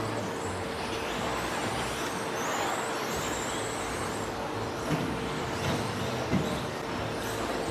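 Electric RC stadium trucks with 13.5-turn brushless motors racing around a dirt track: high motor whines rising and falling as they accelerate and brake, over a steady hum. Two short knocks land about five and six seconds in.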